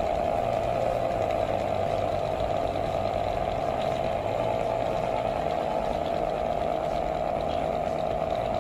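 Small electric motor running steadily with a constant buzzing hum, driving the shaking of a homemade earthquake model.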